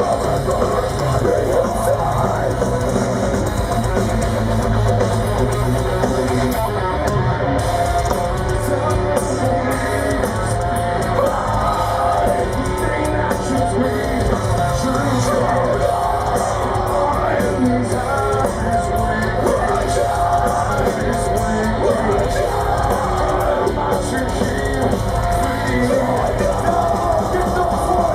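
Heavy metal band playing live, with distorted electric guitars and a drum kit, loud and steady throughout.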